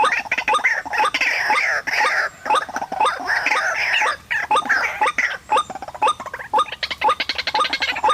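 White-breasted waterhen (ruak-ruak) calling: a dense, harsh chorus of croaking calls over a short rising note repeated two to three times a second.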